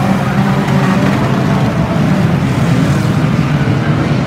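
Engines of several banger racing cars running hard as they race around the oval, a loud steady drone of many engines at once.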